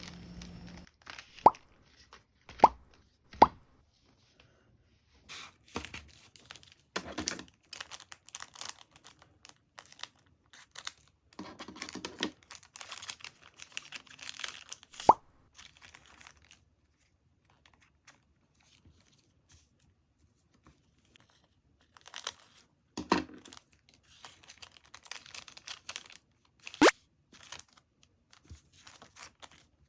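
Plastic packaging being handled and opened: crinkling and tearing, broken by several sharp clicks or snaps, three of them close together near the start.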